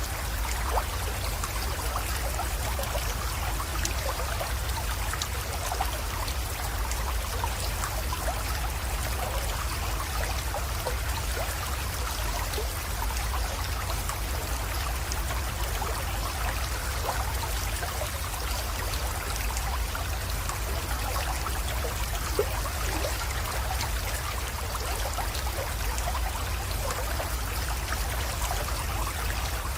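Small spring-fed creek trickling and splashing steadily over stones, a dense patter of small splashes over a steady low rumble.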